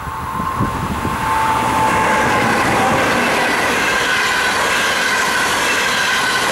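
NS ICM 'Koploper' electric intercity train passing close at speed. The rush of wheels on rail grows loud about a second in and then holds steady, with a whine whose pitch drops a little as the front goes by.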